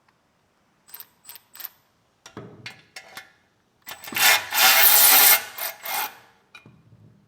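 A tool working the half-inch bolts off an exhaust bracket: a few sharp metallic clicks about a second in, then a loud rasping run of tool noise lasting about two seconds in the middle, and a short knock near the end.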